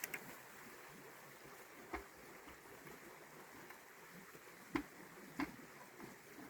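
Steady rush of a river, with four sharp knocks or clacks spaced through it, the loudest two close together near the end.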